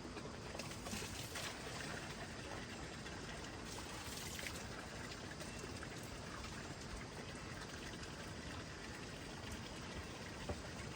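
Steady water noise, with a few faint splashes or drips and a small click near the end.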